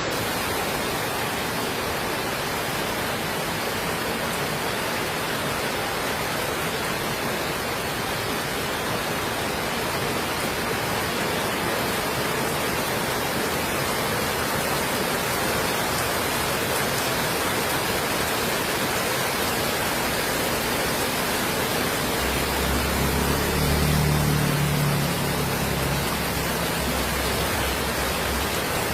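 Heavy tropical rain falling steadily, an even hiss with no breaks. Near the end a low rumble with a steady hum rises and fades over a few seconds.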